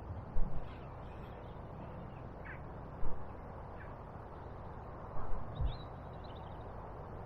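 Outdoor riverside ambience: a steady rushing background with a few faint, thin bird calls, and several short low thumps, the loudest sounds, scattered through it.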